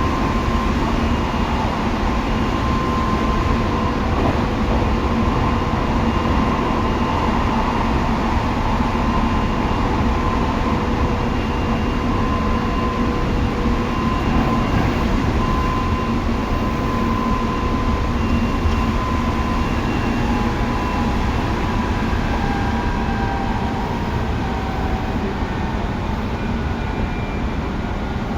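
Tobu 9050 series electric train running: a steady rumble of wheels on rail with a traction-motor whine held at a few steady pitches. In the last several seconds some of the whine tones glide slightly downward.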